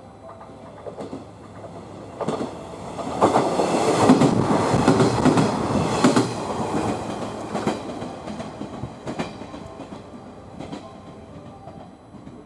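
Two-car KiHa 126 diesel railcar train passing close by at speed, its wheels clacking over rail joints. The sound builds, is loudest for about four seconds as the cars go by, then fades as the train moves away.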